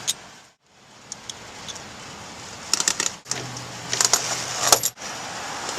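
Metal tire-chain links clinking and rattling in two short clusters of clicks as the side chains are pulled tight by hand.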